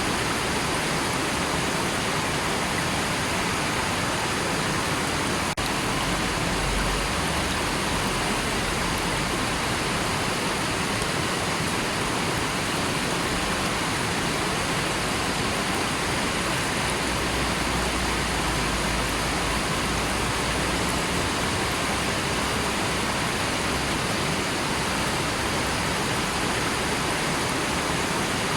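River water rushing steadily, an even hiss with no change in level, broken only by a brief dip about five and a half seconds in.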